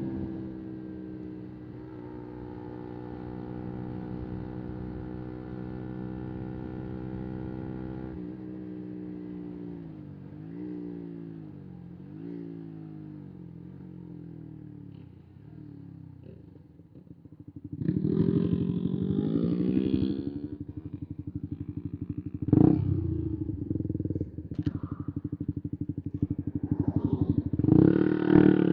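125 cc single-cylinder four-stroke motorcycle engine running at a steady pitch, then its revs dip and rise several times. About 18 s in it revs up hard, there is a sharp blip a few seconds later, and the revs climb again near the end.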